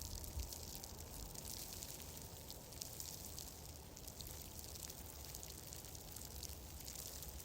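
Fire crackling in a fireplace: a steady hiss scattered with many small, irregular crackles over a low rumble.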